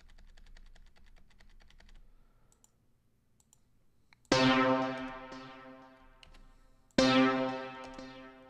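Rapid clicking of a computer keyboard for about two seconds, then two loud software-synthesizer chords from the Alchemy instrument, each struck suddenly and fading away, about two and a half seconds apart.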